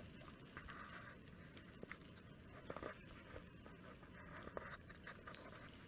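Near silence, broken by a few faint clicks and short scrapes.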